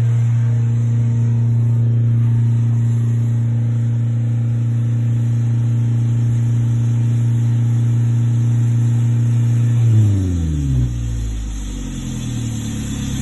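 Mazda 2.0-litre FS four-cylinder engine held at steady raised revs, then let go about ten seconds in, the revs falling quickly back towards idle.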